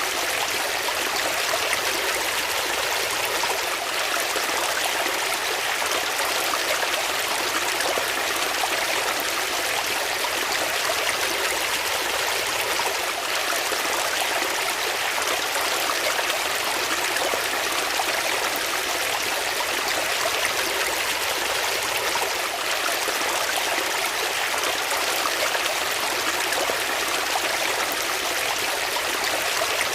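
Water flowing steadily, a constant even rush with no pauses or changes.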